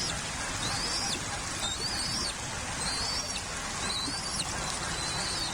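Bald eagle eaglets giving high-pitched food-begging peeps, one short call about every second, each rising and then dropping, over a steady background hiss.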